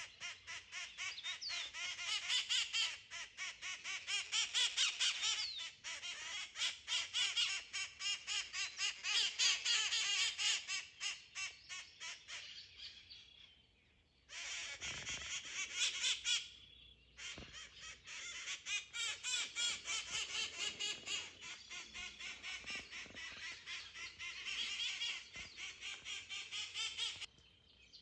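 A flock of wild parrots calling: a dense, harsh chatter of rapid repeated squawks, which breaks off briefly twice around the middle.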